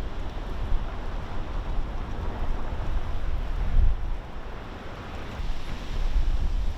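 Strong wind gusting across the microphone, a buffeting low rumble that rises and falls.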